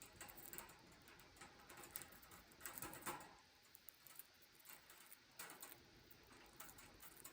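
Faint, scattered small clicks and scratchy taps from a pet budgerigar, busiest about a third of the way in and again past the middle, with no chirping.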